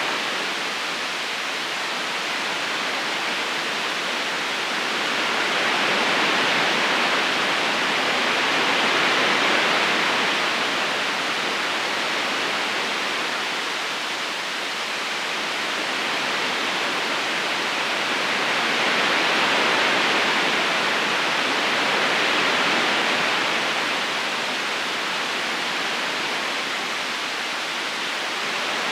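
Steady rush of a river current, swelling and easing slowly every ten seconds or so.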